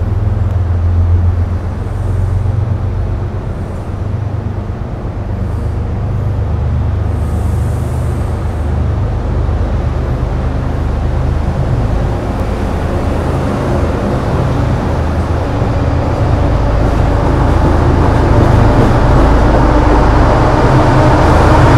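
A train's low, steady rumble, growing gradually louder toward the end.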